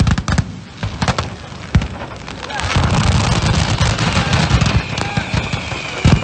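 A load of fireworks going off by accident at ground level: a few sharp separate bangs, then from about two and a half seconds in a dense, continuous crackle of bursts. A high steady whistle runs through the last second and a half.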